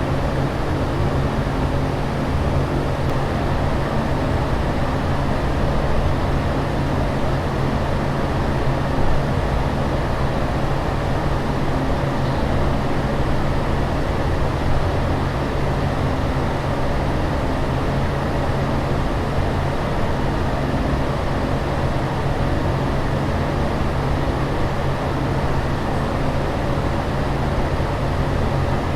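Steady airliner cabin noise in flight: an even rushing drone of engine and air noise with a low hum underneath, unchanging in level.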